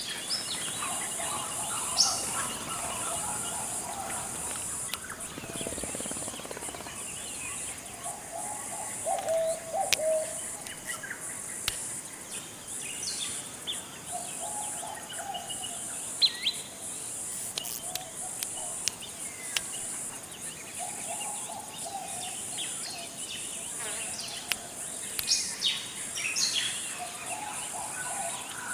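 Forest ambience: a steady high insect drone under scattered bird calls, with low warbling phrases and short sharp high chirps coming and going.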